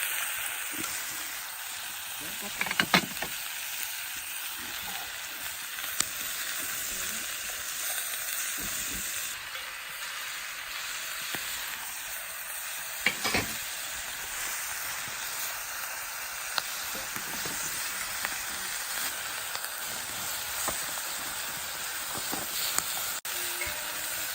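Food frying in a pan: a steady sizzle, with a couple of brief knocks a few seconds in and again about halfway.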